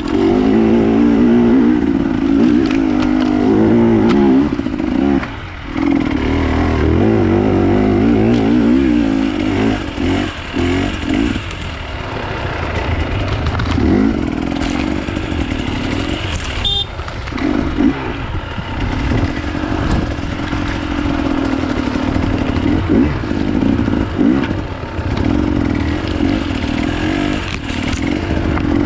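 Enduro dirt bike engine running under constantly changing throttle, revving up and easing off, with scattered knocks and clatter over rough ground.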